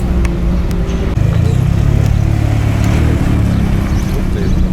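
Car engines running at low revs, a steady low rumble that grows louder about a second in as a deeper engine note comes in.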